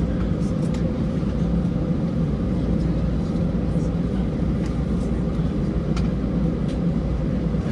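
Steady cabin noise inside an Airbus A320 airliner: a constant low engine rumble with airflow hiss and a few faint clicks.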